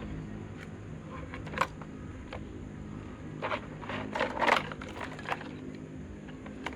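Clicks and scrapes of electric fan motor parts being handled and worked on, in a cluster around the middle, over a steady low hum.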